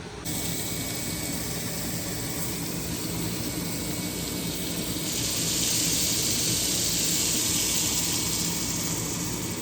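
Pancake batter sizzling on a hot pan over a steady low hum, the sizzle getting louder and brighter about five seconds in.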